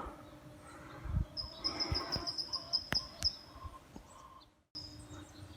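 A high, rapid chirping trill lasting about two seconds from a small wild creature, over faint outdoor background noise, with a couple of sharp clicks and soft knocks. The sound cuts out completely for a moment near the end, then the trill briefly resumes.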